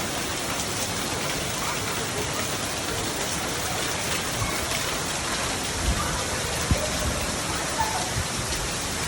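Heavy rain pouring down steadily, a continuous even hiss of drops on surfaces, with a couple of dull low thumps about two-thirds of the way in.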